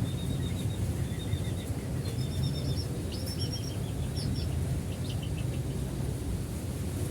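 Bird chirping in short runs of rapid, high notes, several runs in a row, over a steady low rumble.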